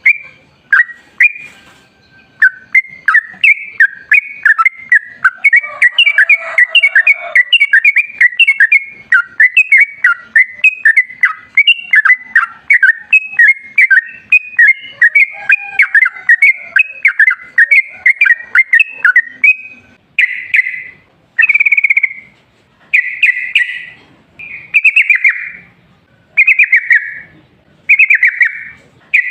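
Yellow-vented bulbul (trucukan) singing its long, rapid chattering run of short notes, the 'ropel panjang' song, for about twenty seconds. It then breaks into separate bubbling phrases of about a second each, repeated every second or two.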